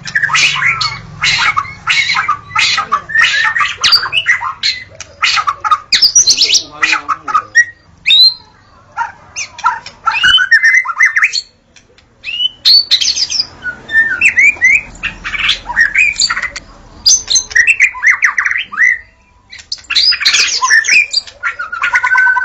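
White-rumped shama (murai batu) singing: loud, rapid bursts of varied whistles, sweeping notes and fast chattering trills, with brief pauses of about a second between song bouts.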